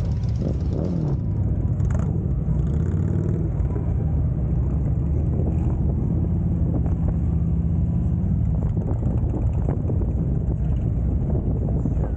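Harley-Davidson Road Glide's V-twin engine running steadily while the bike cruises down the highway.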